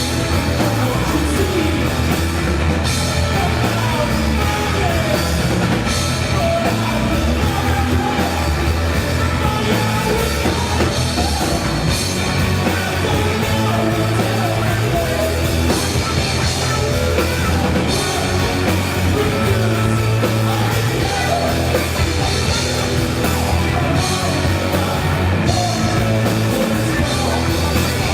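Live rock band playing loud and steady, with drum kit, strong bass and a singer's voice over the band.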